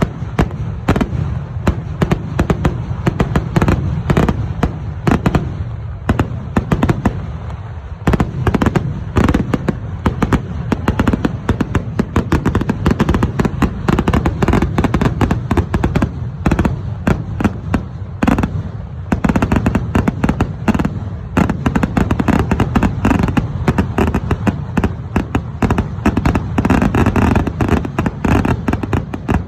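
Fireworks display set off in a dense, continuous barrage: rapid sharp cracks many times a second over a constant low rumble of booms. The barrage thins briefly a few times, around six, eight and nineteen seconds in.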